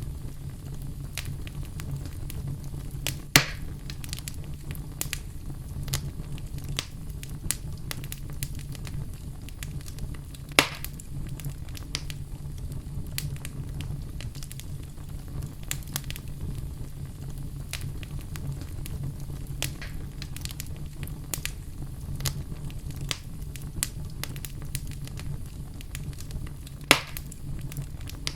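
Fire burning in a fireplace: a steady low rumble of flames with constant small crackles, and three louder sharp pops, about three seconds in, about ten seconds in, and near the end.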